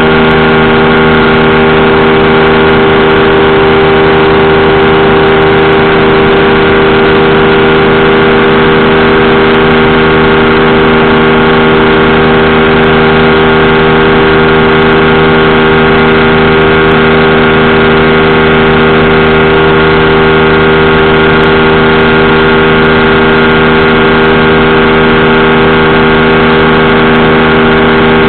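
Powered parachute's engine and propeller running steadily at constant power, with an even, unchanging drone.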